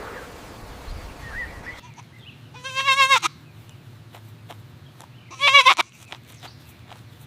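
Goat bleating twice, a few seconds apart. Each bleat is a loud, quavering call of about half a second.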